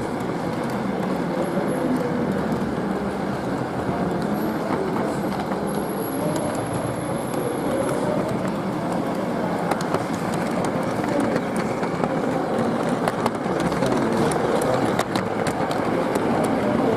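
G-scale model train running along its garden track, heard from on board: a steady motor hum and wheel noise with scattered clicks from the rails.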